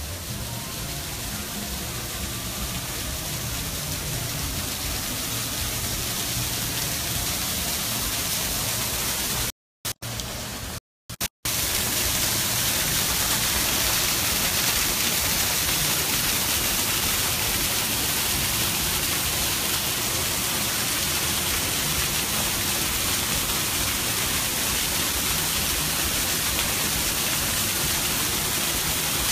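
Waterfall rushing, growing louder over the first ten seconds or so as it comes near, then holding steady. The sound cuts out completely twice, briefly, a little before halfway.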